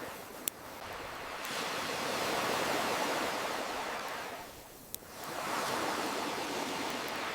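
Ocean waves washing onto a shore, swelling and ebbing every few seconds, with the sharp pops of a crackling wood campfire. Two pops stand out, about half a second in and near five seconds.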